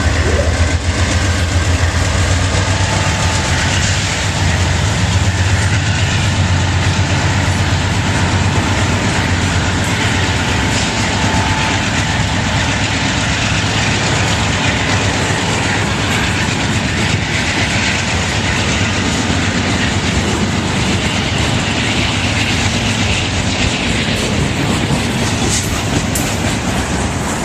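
Freight train cars rolling past close by, a loud steady rumble and rattle of steel wheels on the rails. The low rumble is heaviest in the first half.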